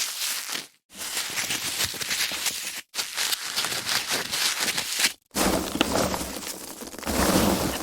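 Foam packaging being handled, squeezed and rubbed: dense crackling and creaking, in separate takes with short silent gaps about one, three and five seconds in.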